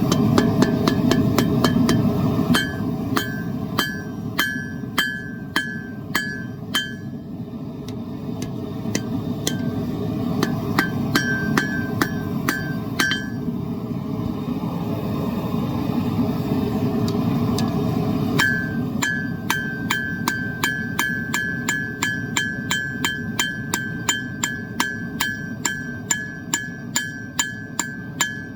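Hammer blows on hot steel over an anvil, each strike ringing. The blows come in short runs with pauses between, then a long, even run of about two blows a second over the last third. A steady roar from a propane forge burner runs underneath.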